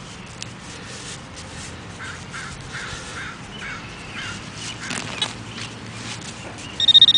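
A crow cawing repeatedly in the background, about six calls in a row. Near the end, a metal detector's loud, high, pulsing electronic beep starts.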